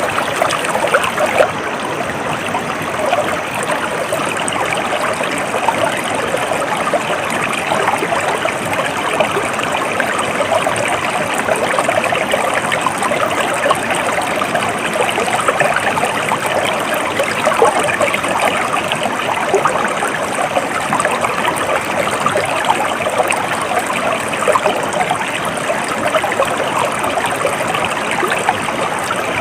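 Stream water flowing steadily, a continuous rush with fine splashing and trickling.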